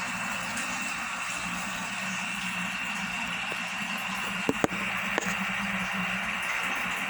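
Steady hiss of running water in an aquarium, with a low hum under it and a few sharp clicks about four and a half to five seconds in.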